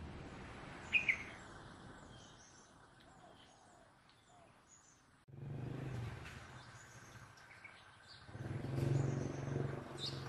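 Small birds chirping and tweeting in short calls, with a sharp pair of chirps about a second in. About halfway through, a low droning rumble comes in and swells near the end.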